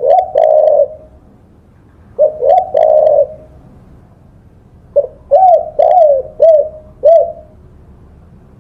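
Spotted dove (tekukur) cooing: three phrases of short, arching coos. The first two phrases each end in a longer held note, and the last is a run of five or six separate coos.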